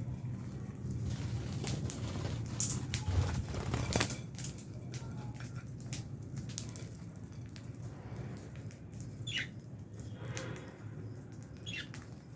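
Lovebirds moving about in an aviary: scattered sharp clicks and rustles, busiest in the first few seconds, with two short chirps in the second half.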